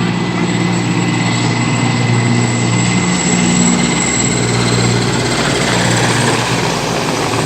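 Helicopter taking off: a steady turbine whine with two thin high tones over the low, dense beat and rush of the main rotor.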